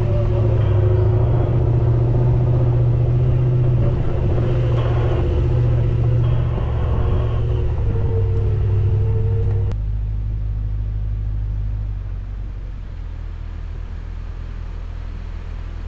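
Four-wheel-drive's engine running steadily as it drives a dirt track, heard from on board the vehicle. About ten seconds in the sound cuts off abruptly to a quieter, steady low hum.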